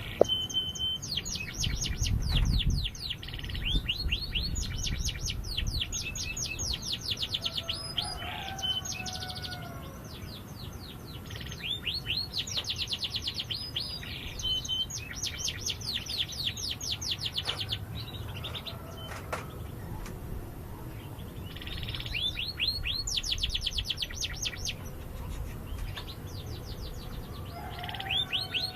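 Domestic canary singing: long, fast trills of rapidly repeated high notes in phrases several seconds long, with brief pauses between them.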